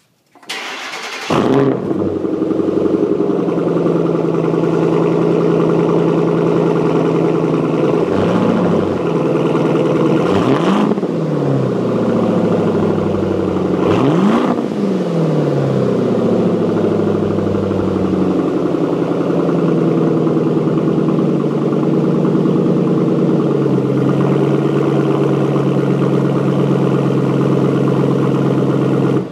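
2010 Ford Mustang GT's V8 through a Roush aftermarket exhaust, starting up about a second in and settling into a loud, steady idle. It is blipped three times early on the idle, the pitch climbing and dropping back each time, then idles evenly until the sound cuts off suddenly at the end.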